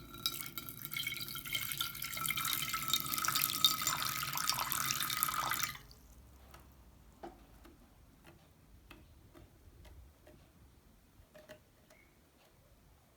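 Small pet bird bathing in a shallow dish, its wings flicking water in a rapid, dense spatter of splashes. The splashing stops suddenly about six seconds in, leaving only a few faint taps.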